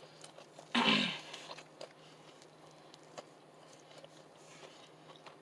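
Quiet chewing and mouth clicks from someone eating, with one short breathy vocal sound falling in pitch about a second in.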